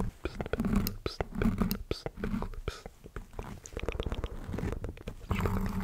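Close-miked ASMR mouth sounds: quick wet clicks and smacks in an irregular run, mixed with short breathy whispered sounds.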